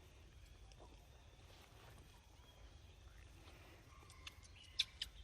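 Faint outdoor background with a low steady rumble, and a few sharp clicks and brief faint high tones near the end.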